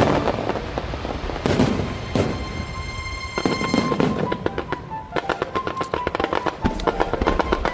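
Fireworks bursting: a couple of big bangs in the first few seconds, then a long run of rapid crackling from about halfway on. Music plays along with it.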